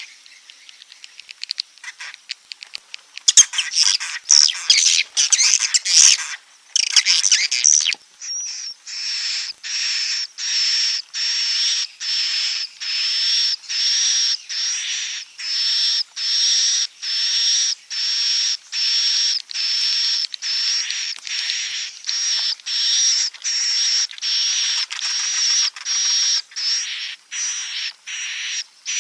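Recorded swiftlet calls of the kind played as a roosting lure ('suara inap') to draw swiftlets into a nest house. Fast, irregular twittering for the first several seconds, then a long even run of identical short high chirps, just under two a second.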